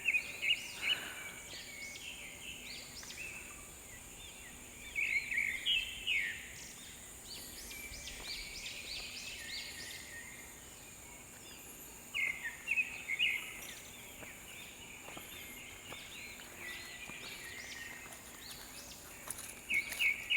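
Birds calling in short bursts of quick, high chirps that come back about every six or seven seconds, over a steady outdoor background.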